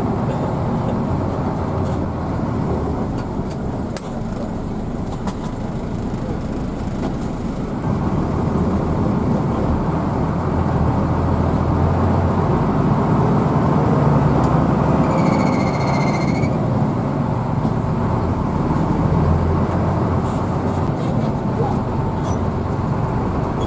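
Hino AK intercity bus under way, heard from the passenger cabin: steady engine and road rumble that gets louder about eight seconds in. A brief high tone sounds for about a second and a half roughly two-thirds of the way through.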